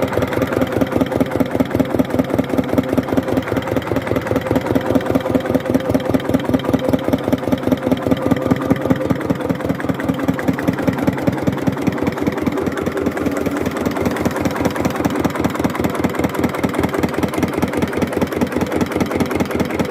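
Hatz diesel engine test-running at low speed, with a steady, even beat of firing pulses.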